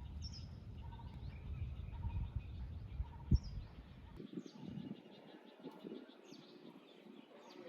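Birds chirping outdoors, short falling chirps repeated throughout. A low rumble runs under them for the first half and stops about halfway, just after a single sharp knock.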